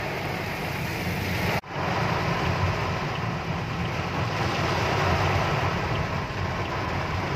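Heavy rain beating on a car, heard from inside the cabin as a steady, dense rush over the low rumble of the car. The sound cuts out for an instant about a second and a half in.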